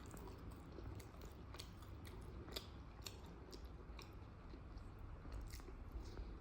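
A person chewing food close to the microphone: a quick, irregular run of small wet mouth clicks, several a second.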